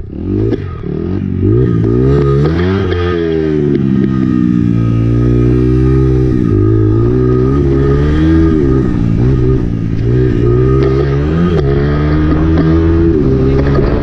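Honda CRF four-stroke dirt bike engine being ridden hard. The engine pitch climbs and drops again and again as the throttle is opened and closed, with a brief dip in loudness right at the start.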